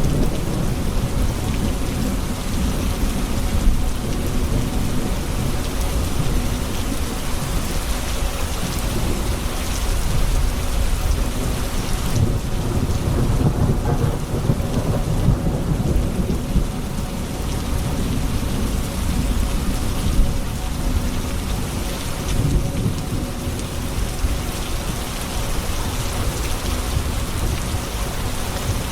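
Steady heavy rain falling on hard surfaces, with low rumbling thunder rolling in the background.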